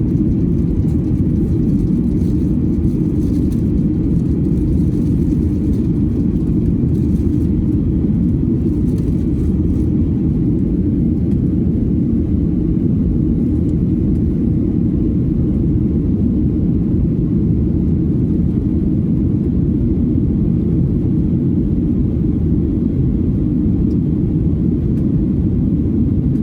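Steady low rumble of engine and airflow noise inside the cabin of a Boeing 737-900ER in flight, unchanging throughout.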